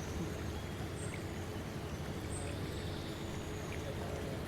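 Steady outdoor background noise, strongest in the low range, with a few faint high chirps like distant birds.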